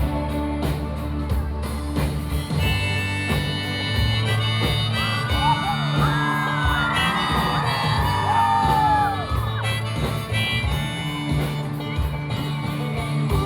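Live pop-rock band playing an instrumental break between choruses, with a reedy, harmonica-like lead melody over bass and drums. Partway through, audience members scream and whoop over the music for a few seconds.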